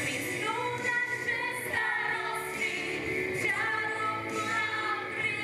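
A song: a singing voice over backing music.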